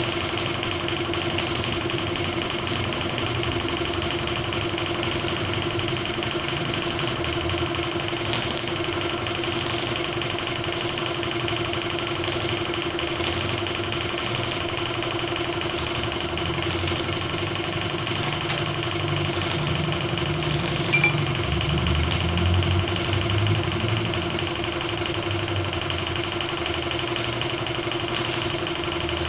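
A motor running steadily with a held hum, overlaid by a short high hiss or scrape that repeats about every second and a half, and one sharp metallic click about two-thirds of the way through.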